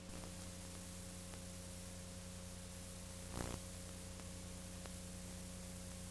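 Low steady hum with an even hiss, with one brief louder noise a little past halfway.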